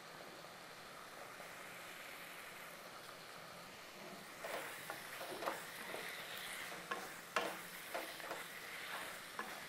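Chicken masala sizzling gently in a pan on a gas stove. About four seconds in, a wooden spatula starts stirring it, with irregular scrapes and knocks against the pan over the sizzle.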